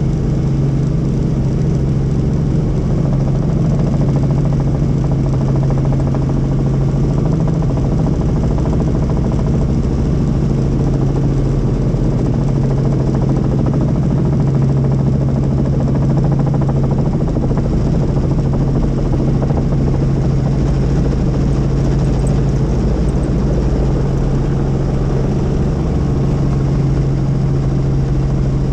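Helicopter running steadily: a loud, unbroken drone of rotors and engine with a strong low hum.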